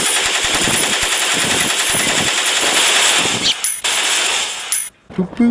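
Machine-gun fire sound effect: rapid, continuous automatic firing that cuts off suddenly near the end.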